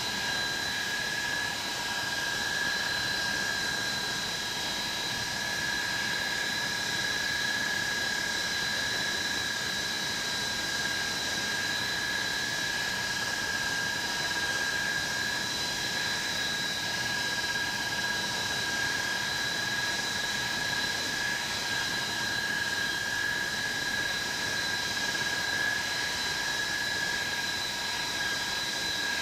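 Bristol Olympus turbojet engines of an Avro Vulcan B2 running steadily on a ground run: an even rush of jet noise with a constant high-pitched turbine whine of several steady tones, holding the same speed throughout.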